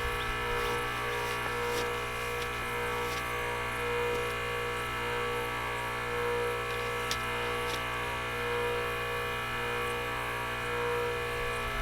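Pressure washer running steadily while cleaning a mower deck: a constant mechanical hum that swells slightly every couple of seconds.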